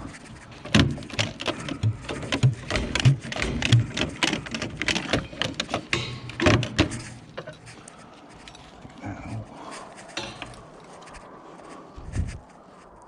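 Scrap being rummaged through and handled: a quick run of clatters and knocks for the first seven seconds or so, then a few softer knocks near the end.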